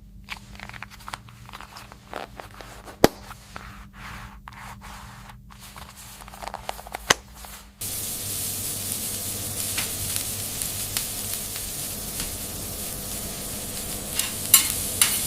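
Scattered soft clicks over a low hum, then about eight seconds in a steady hiss starts abruptly and runs on, with a few sharp crackles near the end.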